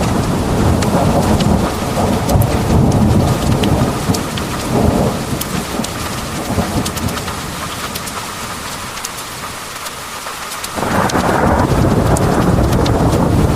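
Heavy rain pouring with fine drop ticks, under thunder. A rolling rumble fades over the first several seconds, then a fresh thunderclap breaks in suddenly about eleven seconds in.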